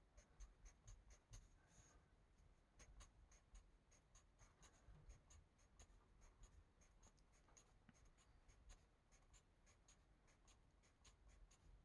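Faint strokes of a marker tip on coloring-book paper: a steady series of short soft scratches, a few a second.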